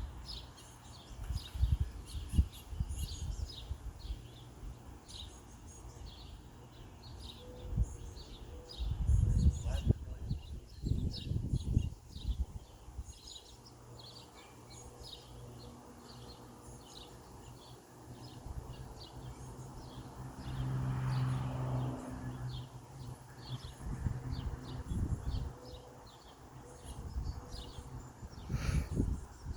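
Small birds chirping over and over, short high calls running on throughout. Irregular low rumbles and thumps come through now and then, and a low hum swells up about twenty seconds in.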